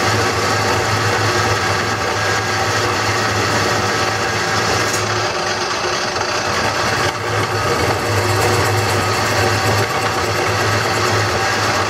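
Wood lathe running with a steady motor hum while a turning tool cuts into a spinning green-wood bowl blank, giving a continuous cutting noise; the highest part of the noise falls away about five seconds in.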